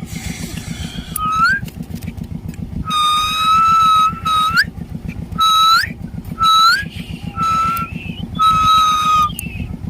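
A series of about six clear whistled notes on one pitch. Some are held level and several end in a quick upward flick; the longest note comes about three seconds in. A steady low rumble runs underneath.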